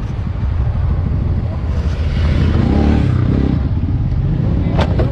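Motorcycle engine running under a steady rumble of road and wind noise, rising and falling in pitch briefly in the middle. A single short, sharp knock comes near the end.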